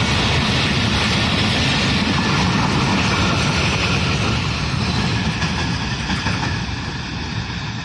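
Passenger express train rolling past at speed, a steady loud rumble and rush of wheels on track that begins to fade over the last two seconds as it draws away.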